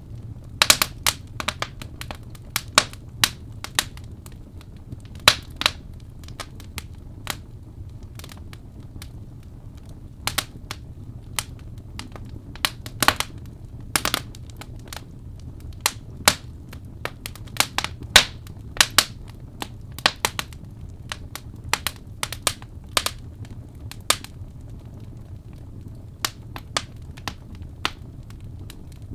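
Wood fire crackling: irregular sharp pops and snaps, several a second at times, over a steady low rumble of the flames.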